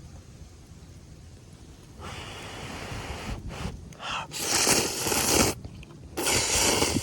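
Ramen noodles slurped twice in long noisy pulls, each a second or so long.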